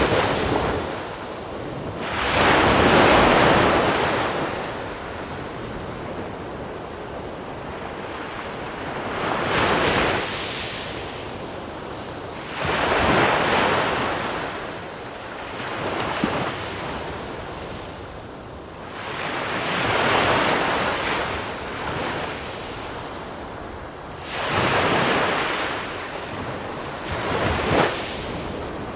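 Small sea waves breaking and washing over a pebble shore, about eight surges a few seconds apart, each a rushing swell that fades back into a steady hiss.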